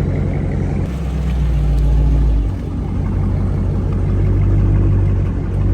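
2021 Dodge Charger R/T's 5.7-litre Hemi V8 running with its mid muffler removed, giving a low, steady exhaust note that shifts slightly about a second in and again about two and a half seconds in.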